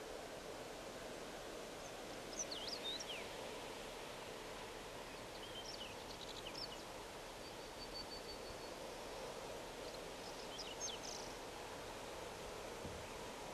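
Steady outdoor background hiss, with small birds chirping in brief calls about four times.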